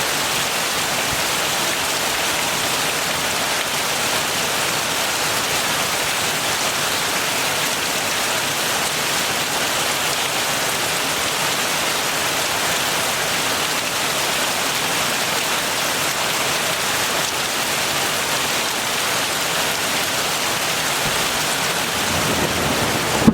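Heavy rain falling in a steady, even hiss. A low rumble starts to build near the end.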